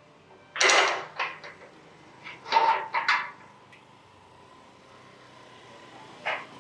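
A house's main gate being handled and opened: a loud clank about half a second in, a cluster of rattling knocks around two and a half to three seconds in, and one more knock near the end.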